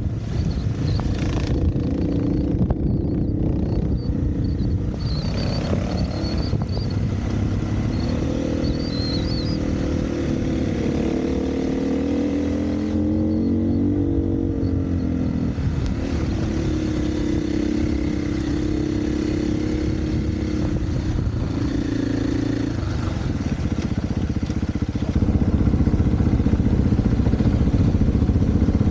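Dirt bike engine running on a forest trail, its pitch rising and falling as the throttle opens and closes, over wind rush and chassis clatter. It gets louder near the end as the rider opens it up.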